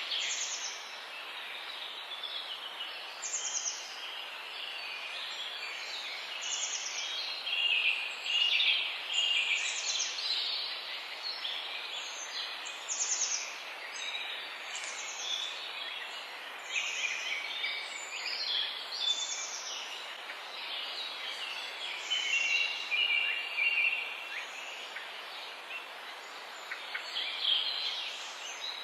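Several wild songbirds singing together. One repeats a short, high, falling call every second or two over busier twittering, with a steady background hiss throughout.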